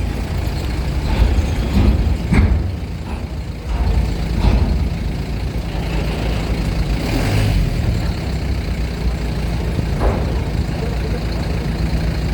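Heavy diesel trucks and buses running with a steady low rumble, with a few short knocks and a brief hiss about seven seconds in.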